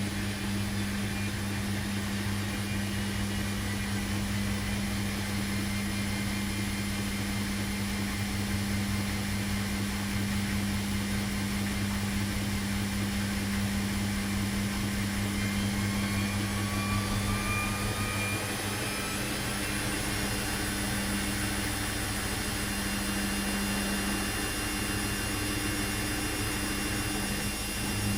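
Washing machine running with a steady motor hum. About two-thirds of the way through, the deepest part of the hum drops away, just after a faint rising whine.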